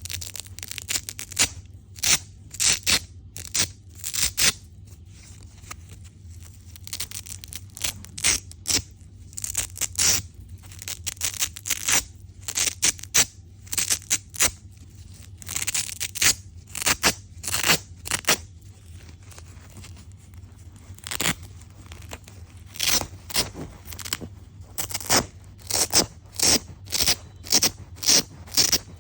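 Small double-sided Velcro (hook-and-loop) dragged and rubbed in many short, crunchy rasping strokes, coming in irregular runs with a few brief pauses. A faint steady low hum lies underneath.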